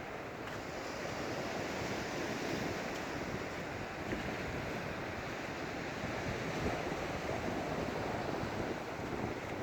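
Surf washing onto the beach in a steady rush, with wind on the phone's microphone.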